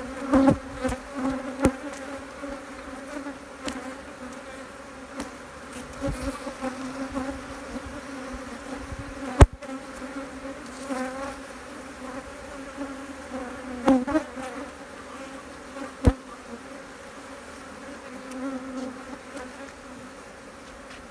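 Honeybees buzzing steadily around an opened hive during a frame-by-frame inspection, a continuous hum. A couple of sharp knocks, about nine and sixteen seconds in, stand out above the buzz.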